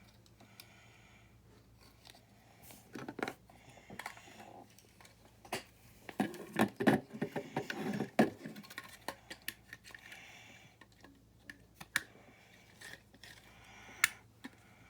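Small plastic building bricks clicking and knocking as they are handled and pressed together, in scattered sharp clicks with a busier stretch about six to eight seconds in.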